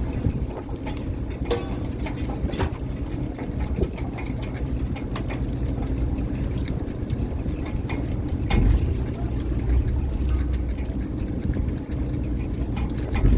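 Fishing boat's engine running steadily, with scattered knocks and clatter now and then.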